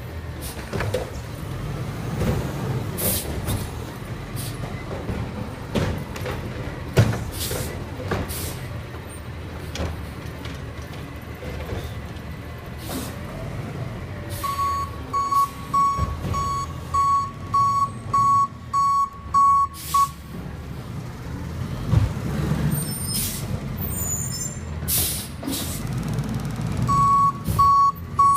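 Garbage truck's engine running, with several short air-brake hisses. Its backup alarm beeps steadily for about five seconds from halfway through, stops, and starts again near the end.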